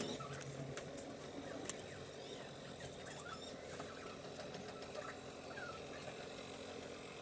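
Faint background bird chirps, short scattered calls, with one sharp click about a second and a half in.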